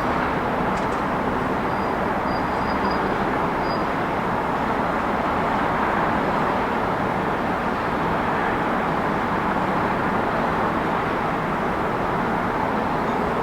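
City street ambience: a steady, even rush of traffic with no single vehicle standing out, and a few faint high peeps about two to four seconds in.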